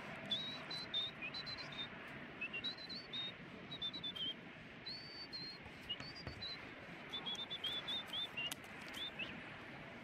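A small bird chirping: runs of short, high chirps, some gliding slightly up or down, repeated in phrases with brief pauses between them, over a faint outdoor background hiss.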